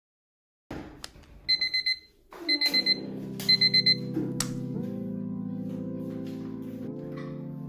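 An electronic alarm beeping in three quick bursts of rapid high beeps, about a second apart. Soft background music with held chords comes in under the beeps and carries on.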